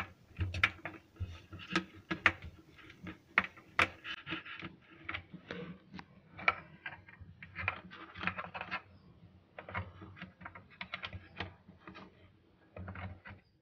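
Irregular small plastic clicks and scrapes of a USB cable plug being handled and pushed at the socket on the back of a portable soundbar. The plug has to be turned over before it will go in.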